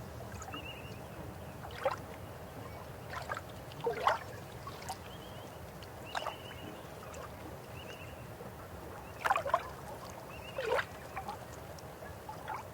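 River water flowing: a steady rush broken by sharp gurgles and splashes every second or two, with a few faint high chirps.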